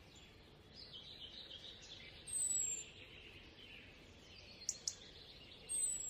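Faint forest ambience with birds: a bird gives a high, short, falling whistle twice, about two seconds in and near the end, over a soft hiss and chatter. Two brief clicks sound about three-quarters of the way through.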